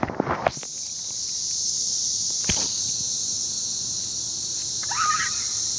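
A chorus of cicadas buzzing in a steady, high-pitched drone.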